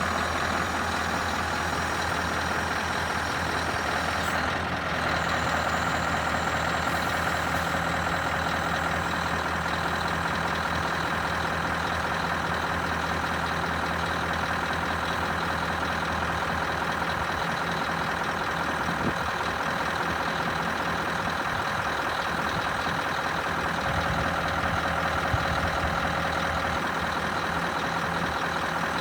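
Scania R560's V8 diesel engine running steadily at an even, unchanging speed.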